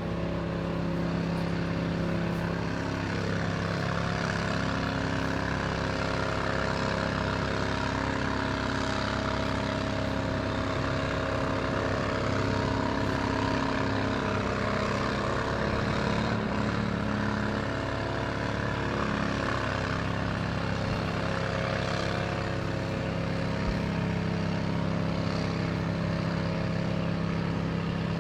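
A large engine running steadily at a constant speed, its pitch wavering slightly in the middle, the kind of drone a fire engine's pump makes while supplying hoses at a fire.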